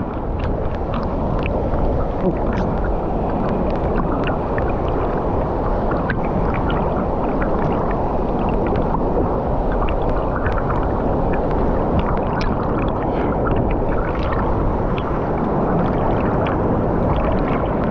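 Steady rushing of a waterfall, with many small splashes of water close by.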